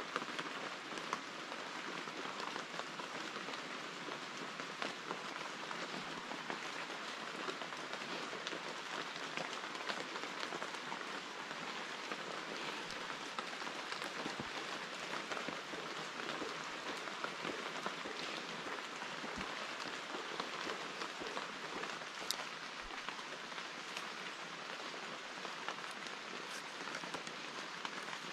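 Steady rain falling on forest foliage: an even hiss scattered with many small drop ticks.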